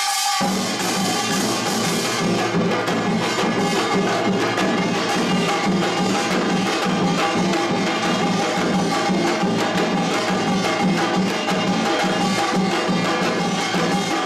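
Korean pungmul percussion band playing a fast, dense rhythm of drums and ringing metal gongs, kicking in about half a second in.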